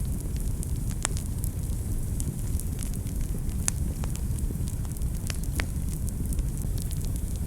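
Wood fire burning in a fireplace: a steady low rumble with irregular sharp crackles and pops, a few louder snaps about a second in and again near the middle.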